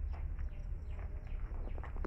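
Birds chirping: a quick series of short chirps that fall in pitch, over a steady low rumble.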